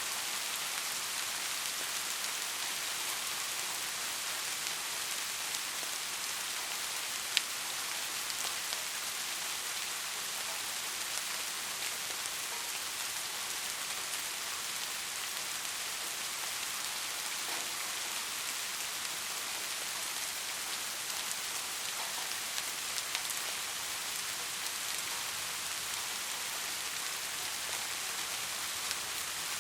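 Steady rain falling, an even hiss of many drops with scattered individual drips and one sharper drop impact about seven seconds in.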